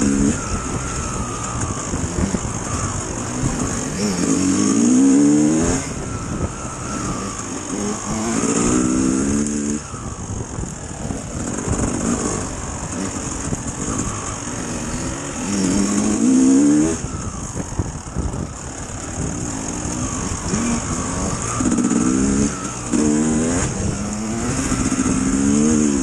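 Dirt bike engine being ridden, revving up and easing off again and again, its pitch climbing with each burst of throttle.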